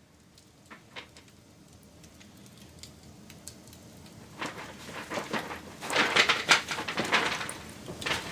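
Wood fire crackling: a few scattered pops at first, then a dense, louder run of crackles and snaps through the second half.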